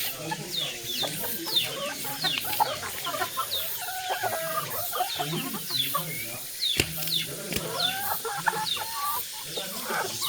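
A free-range flock of chickens clucking continuously, with many short, high, falling chirps throughout and a sharp click about seven seconds in.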